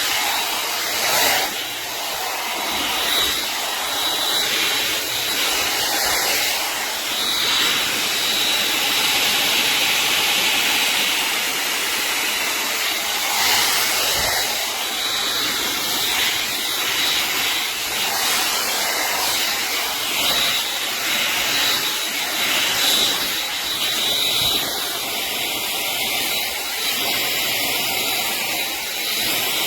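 Hot air dryer brush running, a steady rush of blown air with a thin high motor whine. The level swells and dips a little as the brush is worked through the hair.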